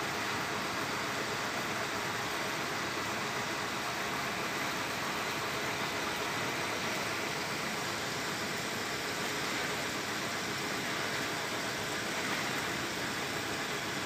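Engine of a 1980 Mitsubishi FE100 truck running steadily, driving a blending machine in fourth gear; the steady sound shows the engine carrying the load without strain.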